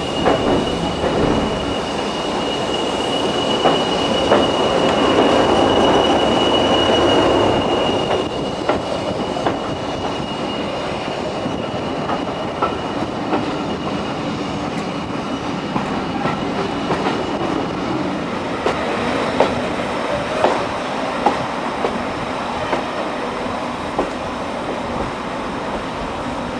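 Carriage of a steam-hauled heritage train running along the line, heard from an open window. A thin, steady high wheel squeal sounds for the first eight seconds or so, then fades. Scattered sharp clicks of the wheels over rail joints come mostly in the second half, over a steady rush of running noise and wind.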